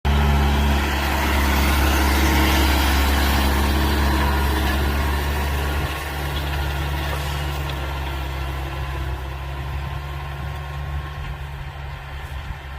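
Large farm tractor's diesel engine running steadily, with a rough rumbling hum. About halfway through it drops in level and grows gradually quieter.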